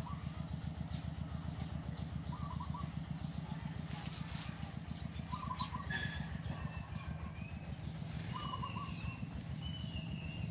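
Birds calling: a short trilled call repeated about every three seconds, with a few thin whistled notes in between, over a steady low rumble.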